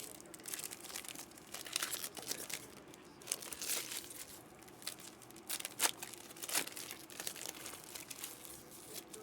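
Trading card pack wrappers crinkling and tearing as packs are opened by hand, in short irregular crackles with a few louder rips.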